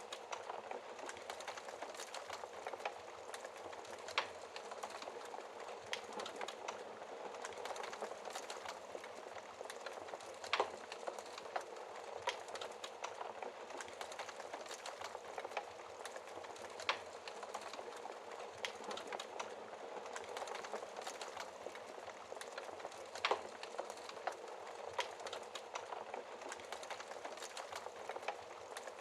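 Wood fire burning behind a glass fireplace door: a steady hiss with constant small crackles and a few louder pops.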